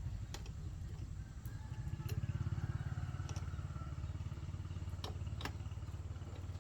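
An engine running at a steady idle, a low rhythmic throb that grows a little louder about two seconds in, with a few light metallic clicks over it.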